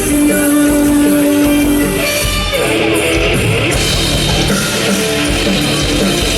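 Live rock band playing, electric guitar to the fore with held notes and a sliding note about two and a half seconds in.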